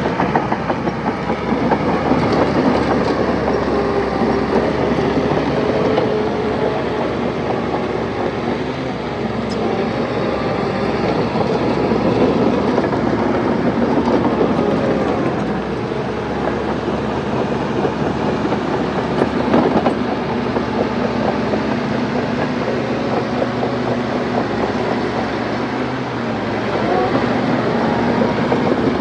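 Crawler bulldozer working: its diesel engine runs steadily with the steel tracks clattering, the engine note shifting up and down as the load changes.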